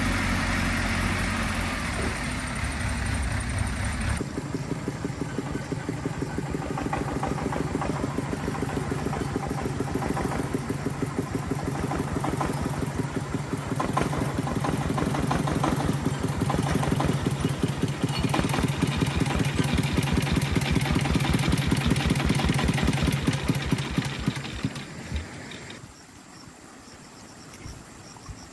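Agricultural vehicle's engine running with a rapid, even pulse. Its note changes about four seconds in, and the engine fades away near the end.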